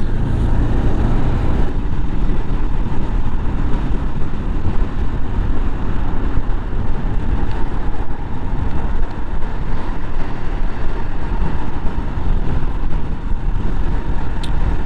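Heavy, steady wind noise buffeting a motorcyclist's helmet microphone while riding at speed, with the motorcycle's running noise underneath.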